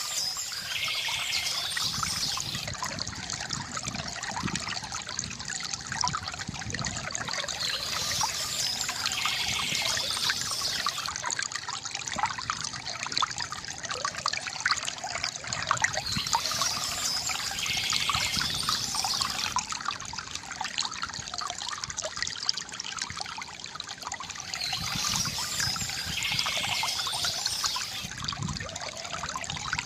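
A small stream trickling and splashing over stones, a steady busy flow of water.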